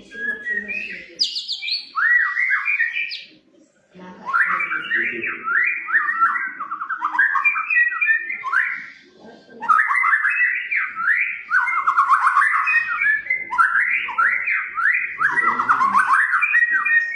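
White-rumped shama (murai batu) singing energetically in long, rapid, varied whistled phrases, with short breaks about four and nine seconds in.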